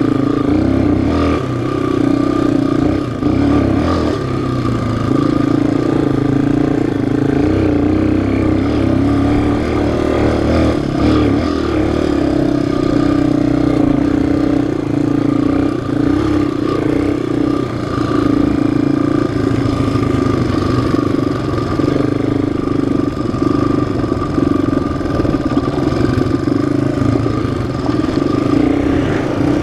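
Single-cylinder four-stroke off-road engine (ATV or dirt bike) running at a fairly steady speed under riding load, with some rattle from the machine.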